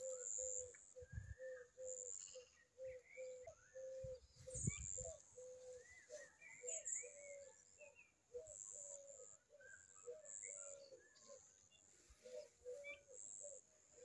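Faint birdsong: one bird repeats a short low note about twice a second, while other birds add scattered higher chirps. Two brief low rumbles come about one and four and a half seconds in.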